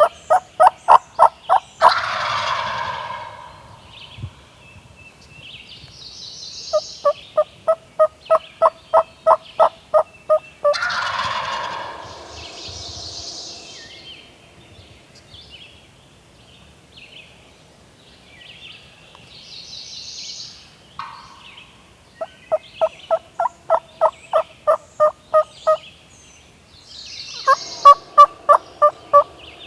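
Wild turkeys calling: runs of loud yelps, about four evenly spaced notes a second, come four times. A gobbler answers the first two runs at once with a rattling gobble. Fainter, more distant gobbles come in between.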